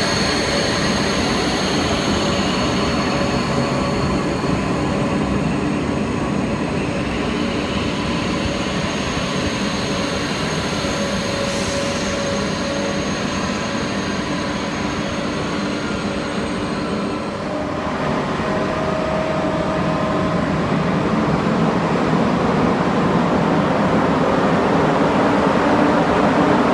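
TGV high-speed trains running along an underground station platform, a steady rumble with whining tones over it. About two-thirds of the way through the sound changes, and a second TGV's noise grows louder as it pulls away down the platform.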